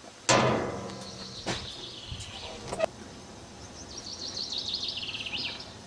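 A songbird singing a fast trill of chirps that slides down in pitch, between about four and five and a half seconds in. It follows a sudden loud burst of noise just after the start that fades over about a second.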